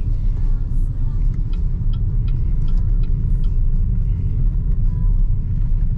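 Steady low road and tyre rumble of a BYD Seagull electric hatchback cruising at expressway speed, heard inside the cabin, with a few faint light ticks in the middle.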